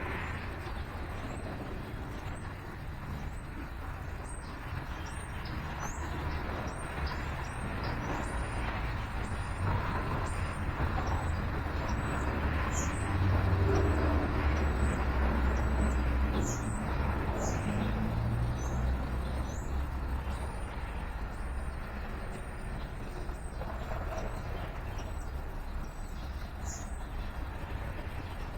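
Low traffic rumble that swells as a vehicle passes about halfway through. A small bird gives short, high, down-slurred chirps, about one a second.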